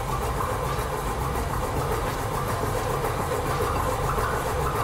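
Car engine running at a steady speed with its oil pan off and its crankshaft webbing and counterweights cut away, the bare crank spinning open underneath, with a fast, even pulsing. It is running with no oil lubrication.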